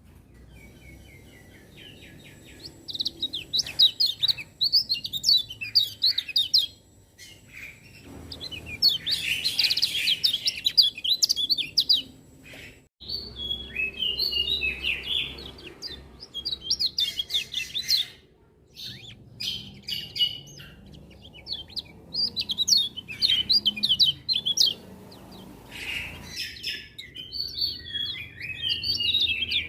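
Kecial kuning white-eye singing: fast, high twittering song phrases several seconds long, with brief pauses between them.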